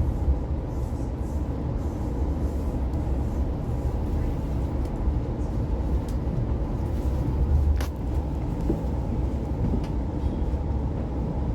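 Steady running rumble of an Oscar H set electric intercity train carriage in motion, with a faint steady hum over it and a sharp click about eight seconds in.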